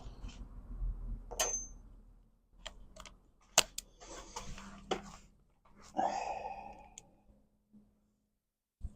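Irregular clicks, taps and short scrapes of small hard parts being handled and fitted together by hand, as a window motor is refitted to a car window regulator. Most of it comes in the first seven seconds, with a sharp knock near the end.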